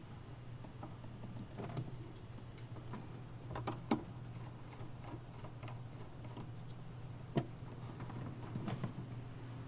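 Scattered light clicks and knocks of hands handling wiring and plastic fuse-box parts, the sharpest about four seconds in and again past seven seconds, over a steady low hum.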